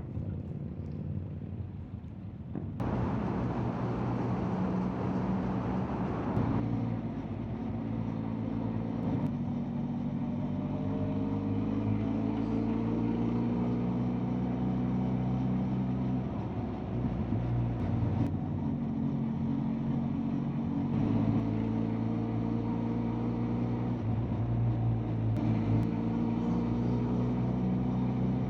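Benelli TRK 502X motorcycle's parallel-twin engine running under way, its pitch rising and falling as the rider works the throttle and gears, with wind noise. The sound changes abruptly several times.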